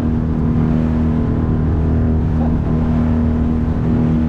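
9.8-horsepower outboard motor of a small boat running steadily under way, a steady engine drone with a rushing noise over it.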